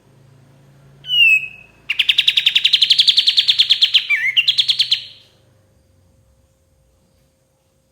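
A kapas tembak songbird singing. About a second in it gives one short falling whistle, then a fast, loud trill of about ten notes a second that rises slightly, breaks briefly with a quick slurred note, and stops about five seconds in.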